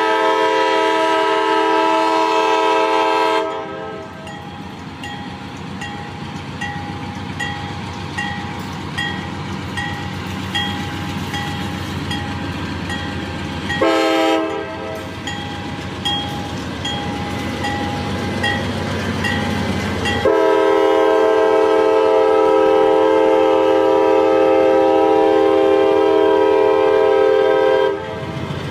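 Locomotive multi-chime air horn sounding a long blast, then a short one, then a long one, the pattern used for a grade crossing. Between the blasts the train rumbles by steadily and a faint ding repeats about every three-quarters of a second.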